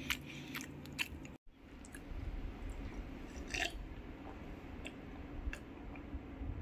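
Close-miked eating sounds: chewing and small wet mouth clicks, then sips and swallows while drinking from a glass. The sound drops out briefly about a second and a half in.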